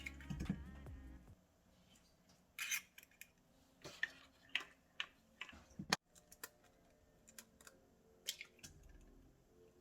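Background music fading out in the first second, then quiet kitchen handling sounds: scattered light clicks, taps and short scrapes of utensils and dishes.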